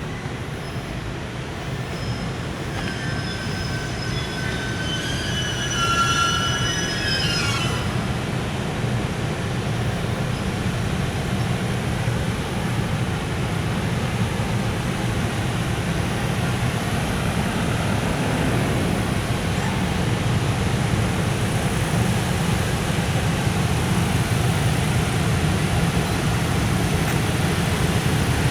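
Container freight train hauled by an EF510 electric locomotive pulling away and rolling past, a steady low rumble that slowly grows louder. About three seconds in, a high-pitched squeal with several tones sounds for roughly five seconds, then stops.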